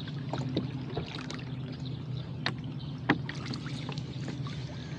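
Water splashing and trickling around a rowboat under oars, with scattered light clicks and knocks, over a steady low hum.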